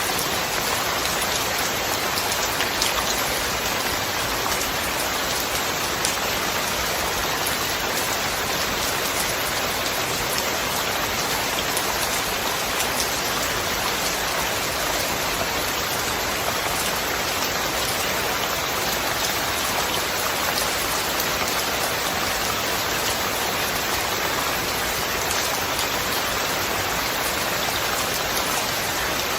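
Steady heavy rain falling, a dense even hiss with faint drop ticks through it.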